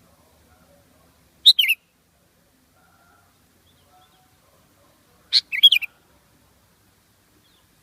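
Sooty-headed bulbul calling: two short phrases of a few quick notes, about four seconds apart, the second a little longer than the first.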